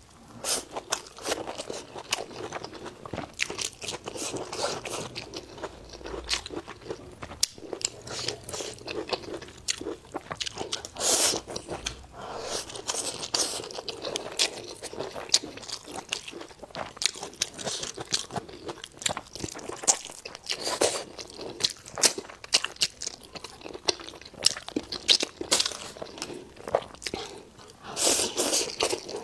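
Close-miked eating: a person biting and chewing crunchy food, with many sharp crackles and crunches throughout.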